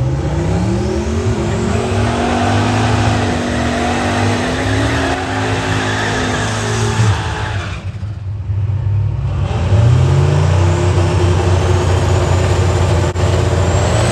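Turbocharged 383 stroker small-block Ford V8 revving. The pitch climbs and holds, falls away about seven seconds in, then climbs again about ten seconds in.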